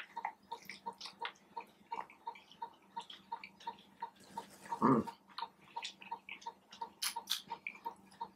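Close-miked chewing and wet mouth sounds of a person eating a taco, irregular smacks and clicks, with a brief louder low mouth sound about five seconds in. A faint, fast, even ticking of about three to four a second and a low steady hum run underneath.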